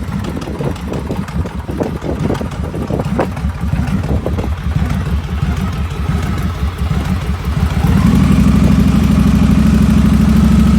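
2007 Victory Kingpin's V-twin engine, fitted with a Stage 2 performance kit, idling with an uneven pulsing beat. About eight seconds in it is brought up to a higher, steady speed and runs louder.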